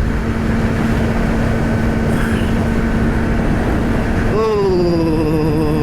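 Yamaha R6 inline-four engine running at highway speed under heavy wind rush on the rider's helmet microphone. About four and a half seconds in the engine note stands out clearly, dipping slightly in pitch and then holding steady.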